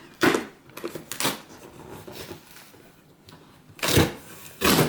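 Cardboard packaging being handled and opened: a handful of short scrapes and knocks, the loudest about four seconds in.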